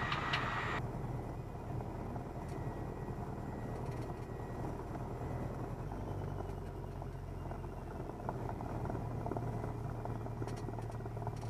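Cessna 172N's four-cylinder Lycoming O-320 engine running at low taxi power, a steady, fairly quiet low drone; its note strengthens slightly about halfway through.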